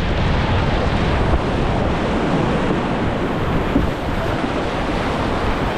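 Rushing whitewater of a river rapid around a raft, a loud steady roar of water, with wind buffeting the microphone.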